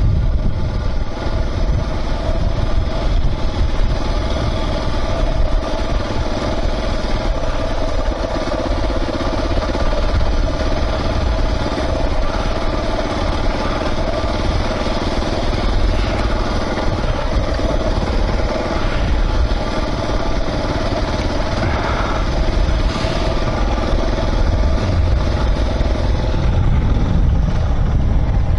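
Suzuki DR650 single-cylinder trail motorcycle running steadily under way at low speed through soft sand.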